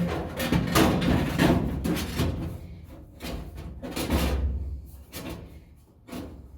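A series of irregular knocks and thumps over background music, fading out near the end.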